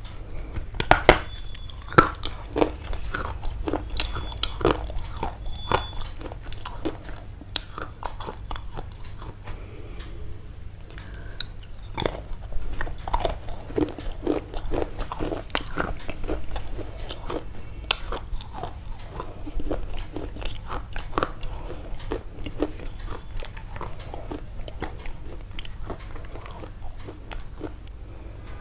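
Crisp crunching, a steady run of irregular short crunches and clicks several times a second.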